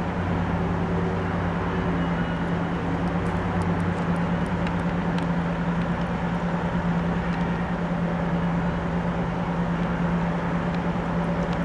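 MARC commuter train's diesel locomotive running with a steady low hum, its bilevel coaches rolling slowly past the platform, over the hiss of rain. A second, deeper hum drops away about four seconds in, and a few light ticks come between about three and five seconds in.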